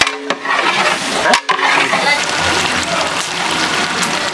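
Thick chicken masala sizzling and bubbling in a large metal biryani pot as it is stirred, with a flat ladle knocking and scraping against the pot a few times, the pot ringing briefly after each knock.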